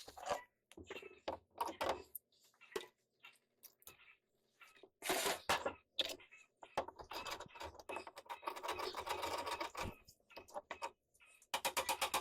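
Irregular knocks, clicks and scrapes of hand-tool work on the boat's woodwork, with a quick run of evenly spaced sharp taps, about six a second, starting near the end.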